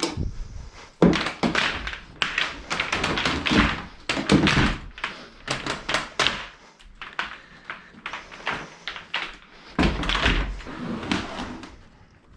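Irregular knocks, thunks and clatter of household items being handled and moved around in a small room.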